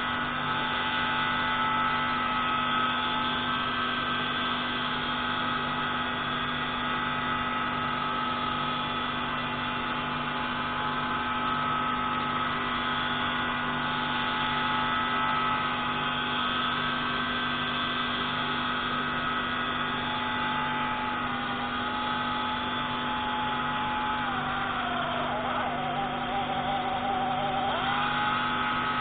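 Pneumatic grinding tool running steadily as it grinds a marine engine intake valve, a continuous mechanical whine. Its pitch sags briefly once, then drops for a few seconds near the end before rising back to speed.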